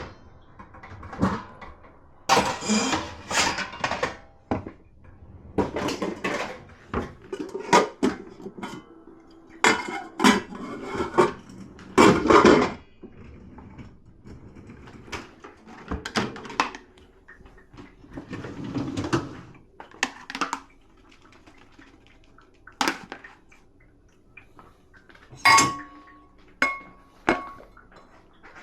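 Dishes and cutlery clattering and clinking as they are handled in and out of a dishwasher, irregular knocks of crockery, with a few ringing clinks near the end.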